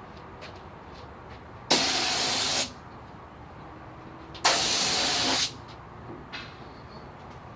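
Paint spray gun hissing in two bursts of about a second each, each starting and stopping sharply, as it lays down the last passes of the first coat of white base coat.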